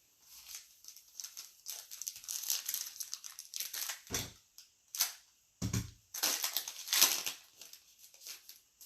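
Trading-card pack wrappers being torn open and crinkled: a run of crackly rustling that swells and fades, loudest about seven seconds in.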